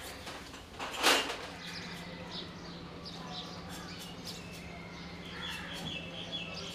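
Small birds chirping over a steady low hum, with a sharp knock about a second in.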